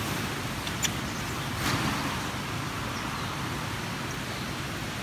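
Steady outdoor background noise, an even hiss over a low rumble of distant road traffic. Two short clicks or knocks come about one and two seconds in.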